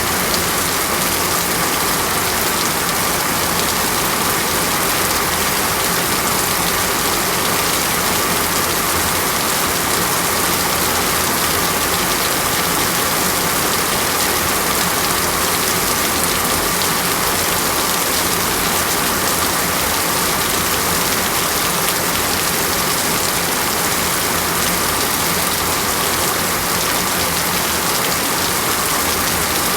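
Steady rainstorm of heavy rain falling without let-up, an even hiss with no breaks or thunder.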